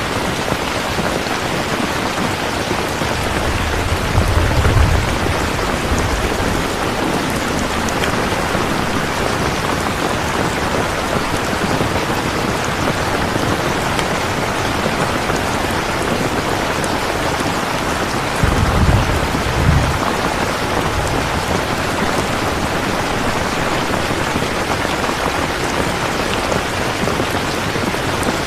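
Steady heavy rain, with two short low rumbles of thunder: one about four seconds in and another about two-thirds of the way through.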